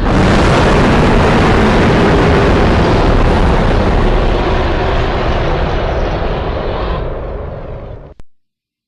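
Designed monster-roar sound effect: a loud roar lasting about eight seconds that fades over its last second and then cuts off abruptly.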